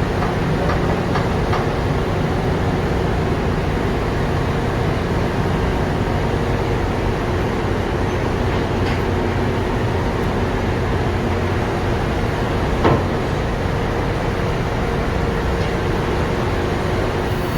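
Steady, loud ship engine-room machinery noise around a Sulzer 10RTA96C marine diesel, with a single sharp click about thirteen seconds in.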